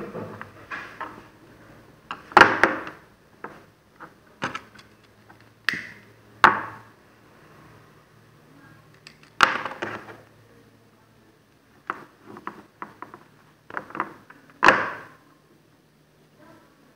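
Irregular sharp clicks and knocks of hand tools and small parts being handled and set down on a work table, with four loud knocks several seconds apart and lighter clicks between them.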